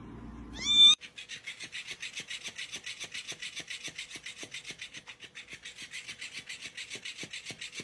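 A cat meows once, briefly, rising in pitch. After a cut, a steady rhythmic rasping takes over at about five strokes a second.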